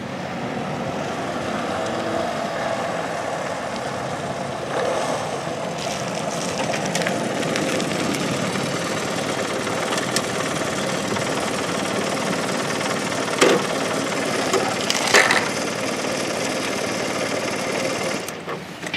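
Honda CD125 motorcycle engine running steadily, with a few sharp clicks near the end.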